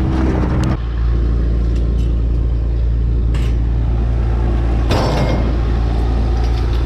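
A vehicle engine running steadily at a constant low hum, with a couple of brief rattles over it, one a little past the middle.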